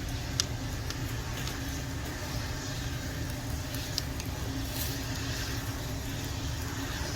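Wood campfire burning under grilling pork belly: a few sharp crackles, about half a second in and around four seconds in, over a steady low rumble.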